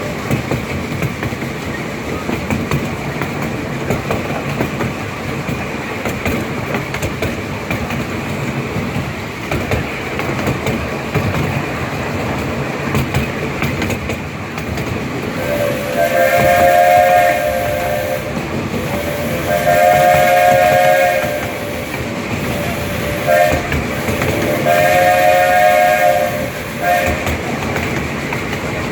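Small steam locomotive's whistle sounding a chord of two notes in several blasts: two long blasts, a short toot, another long blast and a final short toot, over the steady clatter of the train running on the rails.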